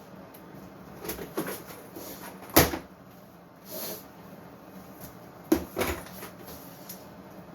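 A handful of separate wooden knocks and clunks as tools and workpieces are handled and set down on a bench, the sharpest about two and a half seconds in, with a softer rustle a little after.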